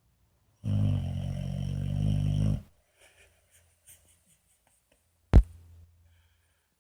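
Boxer puppy snoring pretty loud: one snore on a low, steady pitch, lasting about two seconds. A single sharp knock about five seconds in.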